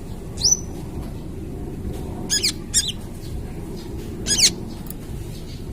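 Young kolibri ninja sunbird calling in short, sharp high chirps: one rising note about half a second in, a quick rapid-fire burst of notes about two and a half seconds in, and another burst near the end, over a steady low background rumble.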